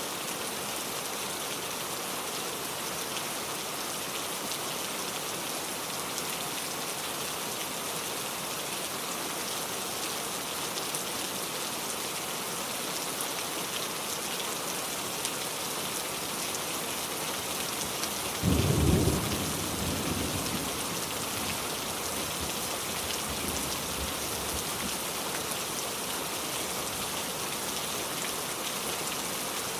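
Steady rainfall, with a single sudden, loud, low clap of thunder about two-thirds of the way through that rumbles away over a few seconds.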